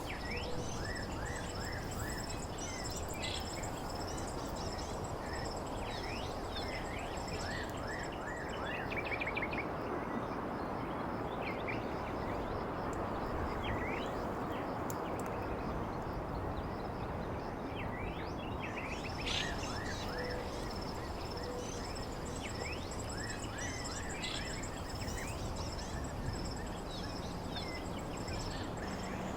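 Outdoor natural ambience: a steady high-pitched insect drone and many short bird chirps over an even, constant rushing noise.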